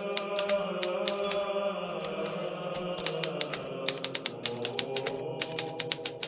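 Hermes Baby portable typewriter being typed on, its keys striking in quick, irregular runs, over a sustained drone of background music.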